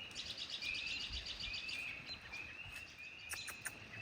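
Birds calling outdoors: a steady series of short rising chirps, about three a second, with bursts of a faster, higher trill laid over them.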